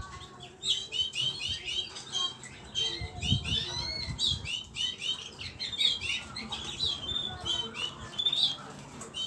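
A small flock of pet birds chirping, a dense, quick chatter of many short overlapping calls.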